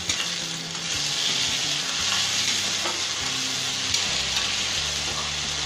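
Chopped onions and green chilli paste sizzling steadily in hot mustard oil in a metal kadai, stirred with a metal spatula.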